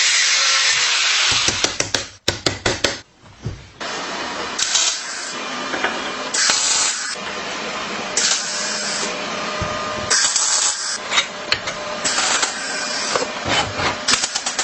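Short bursts of spray hiss, about one every two seconds, typical of an aerosol paint can spraying bicycle parts. Before the bursts, a steady power-tool noise stops about a second in and gives way to a run of clicks and rattles.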